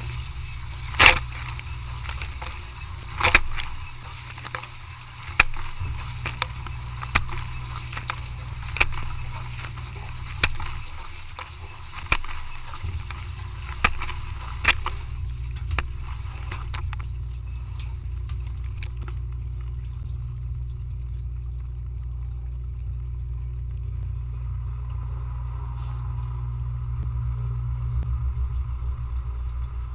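Dishwasher machine running with a steady low hum and a hiss, with a series of sharp knocks every second or two during the first half, then only the hum.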